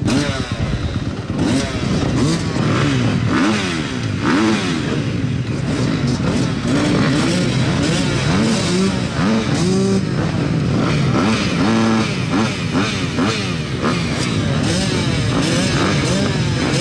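Several motocross bikes' engines revving up and down, their pitches rising and falling over one another as they ride the track.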